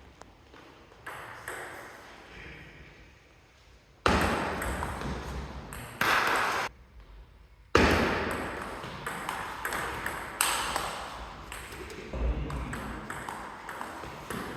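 Table tennis ball in play: a run of sharp clicks as the ball strikes the bats and the table during rallies, over a background hall noise that jumps up abruptly about four seconds in.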